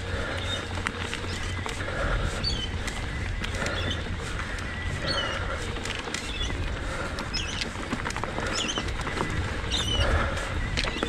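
Bird calls, short chirping notes repeated about once a second, over a steady low rumble.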